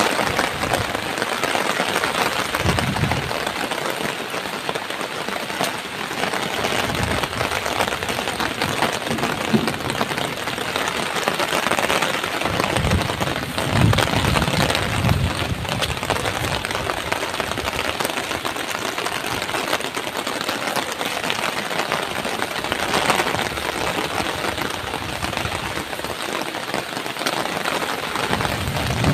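Heavy rain pattering hard on an umbrella, steady throughout, with a few low gusts of strong wind hitting the microphone, the strongest a little before the middle.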